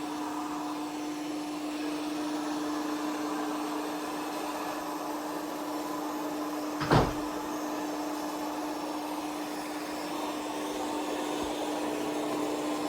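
ECOVACS Deebot X9 Pro robot vacuum running: a steady motor and fan hum with one even tone, with a single short knock about seven seconds in.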